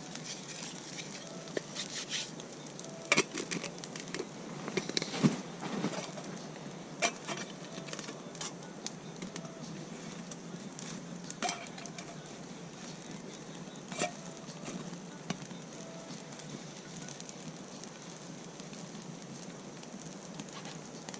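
Steak sizzling in a pan over a campfire, with scattered clicks, knocks and short metallic clinks of cookware and utensils, the loudest between about three and six seconds in.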